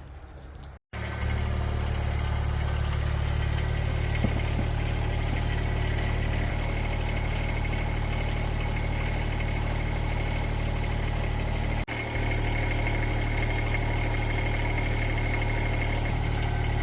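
Engine running steadily at an even speed, with a brief cut-out about a second in and a short dip about twelve seconds in.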